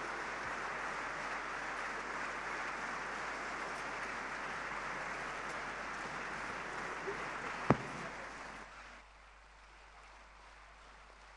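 Audience applauding steadily, fading down about nine seconds in, with one sharp knock shortly before the fade.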